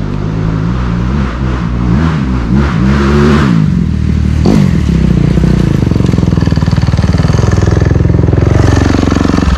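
Dirt bike engine getting louder and revving up and down a few times, then running steadily at higher revs under throttle.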